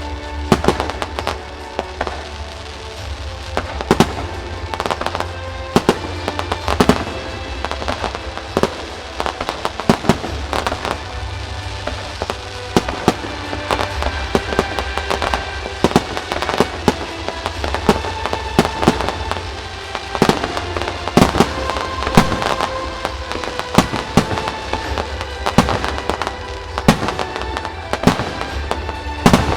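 Fireworks shells bursting, many sharp bangs at an irregular, fast pace, with music playing over a loudspeaker behind them.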